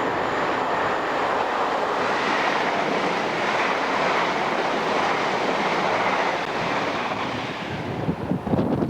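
Train hauled by an AC electric locomotive passing at speed: a steady rush of wheels and air that eases slightly near the end. The microphone is then buffeted by wind in gusts.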